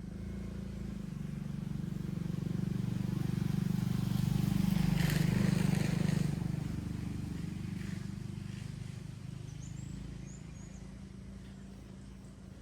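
A motor vehicle's engine passing by: a low hum that grows louder to a peak around the middle, then fades away.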